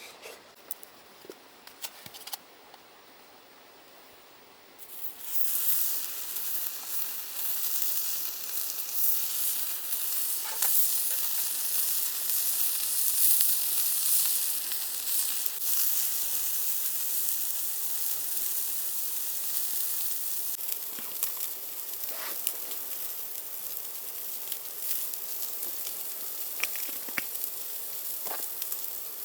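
Yakiniku meat sizzling on a grill over charcoal embers. After a few light clicks the sizzle starts suddenly about five seconds in, as the meat goes onto the heat, then runs steadily with occasional small pops.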